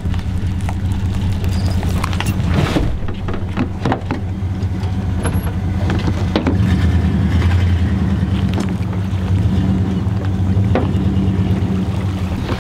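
Boat motor running steadily, with scattered knocks and clicks over its hum.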